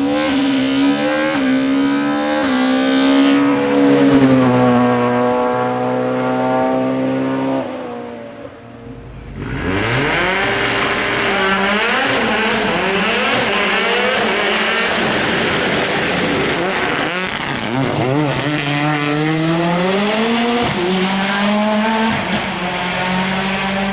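Racing car engines at a hill-climb start. First an engine is held at steady high revs with a brief blip. After a short lull, about ten seconds in, a car launches hard, loud and harsh, its revs climbing and dropping again and again. Near the end an engine is held at steady revs again.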